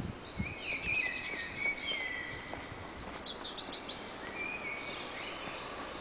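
Birds screaming: loud drawn-out whistling calls that slide in pitch, with a quick run of five or six sharp notes about three and a half seconds in, over a steady background hiss.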